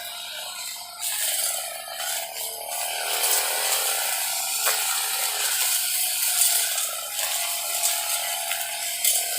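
Brush cutter running with its newly fitted metal blade, a steady mechanical whir and rattle that grows louder about a second in and again a little later.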